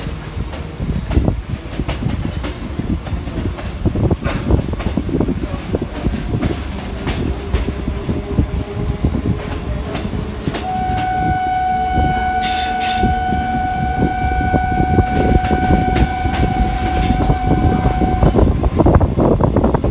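Electric suburban local train running on rails, wheels clattering over the rail joints. About halfway through, a train horn sounds one long, steady blast lasting around eight seconds.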